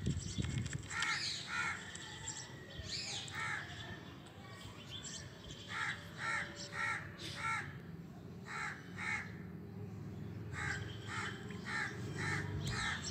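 A bird calling in short repeated calls, two to five at a time at about two a second, with pauses of a second or two between series.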